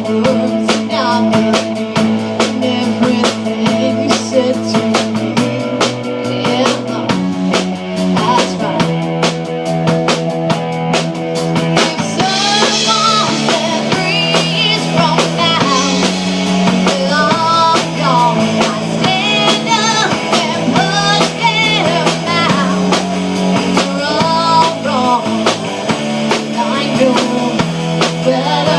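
Rock band playing with drum kit and guitars, a steady beat over stepped bass notes; a higher, wavering melody line comes in about twelve seconds in.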